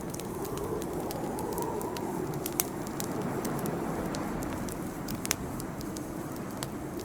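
Campfire burning with a steady low rush of flame, with irregular crackles and sharp pops from the burning wood, a louder pop about two and a half seconds in and another near five seconds.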